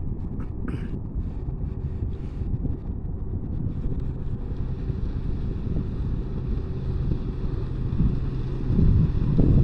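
Wind buffeting the microphone as a heavy low rumble that grows louder near the end, with a faint steady low hum beneath it.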